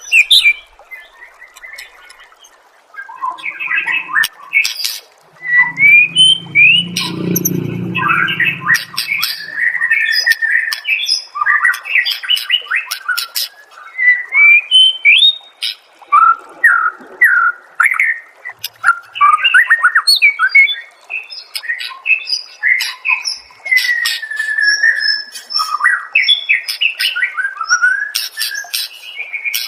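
White-rumped shama singing a fast, varied song of whistles, chirps and sharp clicks, with a brief low rumble about six seconds in.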